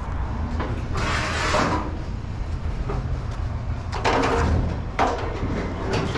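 Scrap metal being handled: two scraping, rattling noises, about a second in and again about four seconds in, and a sharp knock near the end, over a steady low rumble.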